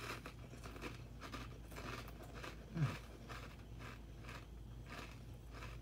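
Mouth chewing crunchy Pringles potato crisps: a run of faint, irregular crunches, with a short low falling hum from the chewer's voice about three seconds in.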